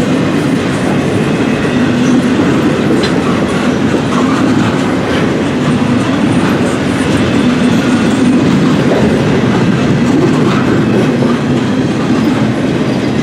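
Intermodal freight train cars rolling past, a steady loud rumble of wheels on rail with a few faint clicks.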